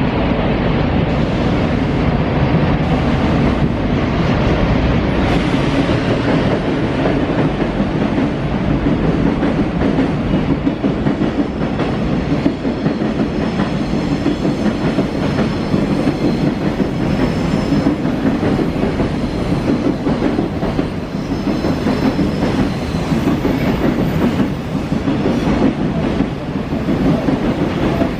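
Freight train running past: the steady, loud noise of its wagons' wheels on the rails, with faint knocks at the rail joints.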